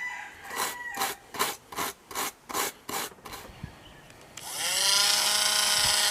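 Rhythmic hand rubbing strokes on wood, about two and a half a second. About four seconds in, a small power tool's motor spins up to speed and runs steadily, louder than the rubbing.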